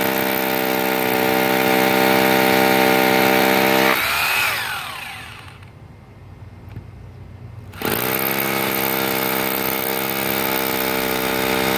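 SDS rotary hammer drill running steadily while drilling anchor holes in concrete. About four seconds in it winds down with a falling whine, then starts up again near eight seconds.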